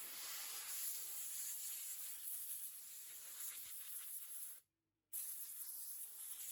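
Compressed-air blow gun hissing steadily, blowing water and loosened dirt off freshly washed wood. The hiss cuts out for about half a second partway through, then resumes.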